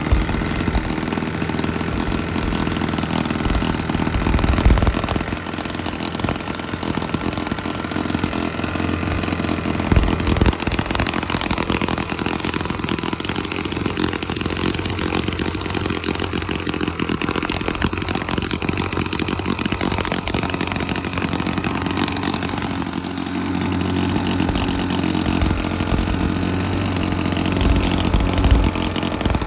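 Homebuilt Elmer Wall 'Water Witch' open-rocker four-stroke model engine, a one-inch-bore single with spark ignition from a coil and automobile points, running steadily on gasoline. A few brief low thumps stand out along the way.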